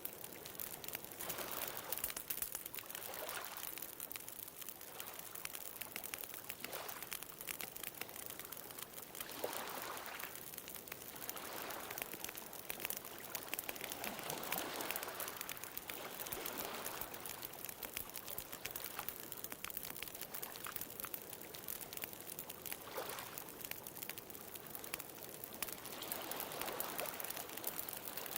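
Wood bonfire crackling with many small pops, over ocean waves washing in and out in swells every few seconds.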